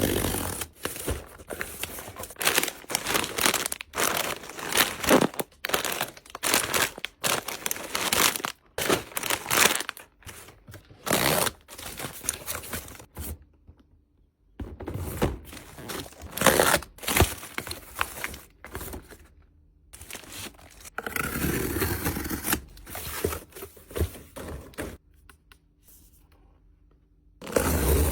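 Snack packaging being handled: plastic wrappers crinkling and tearing, with scrapes and light thuds as items are set down, in short bursts with brief pauses.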